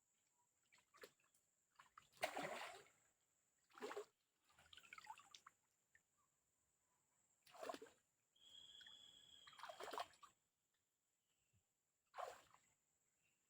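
Water splashing and trickling in several short separate bursts, about six, with quiet gaps between.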